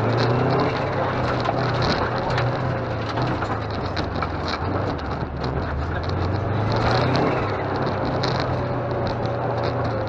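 Rally car engine heard from inside the cabin, revving up and easing off twice, near the start and again about six to seven seconds in, over steady road noise with frequent small clicks and rattles.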